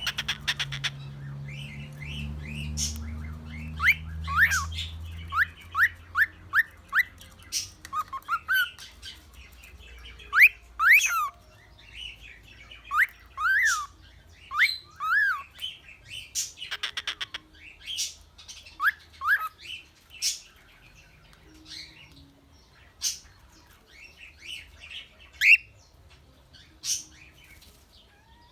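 Cockatiel chirping and whistling in short notes that rise and fall, some in quick runs, mixed with sharp clicks.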